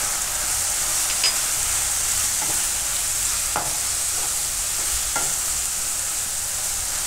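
Chopped green onions sizzling steadily in hot oil in a kadhai while a spatula stirs them, the spatula scraping and knocking against the pan a few times.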